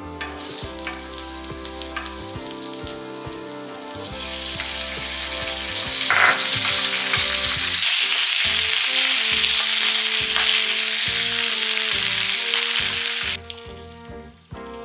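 Minced garlic sizzling softly in olive oil in a frying pan. From about four seconds in, bacon frying with the garlic sizzles much louder. The sizzling cuts off suddenly near the end, with background music throughout.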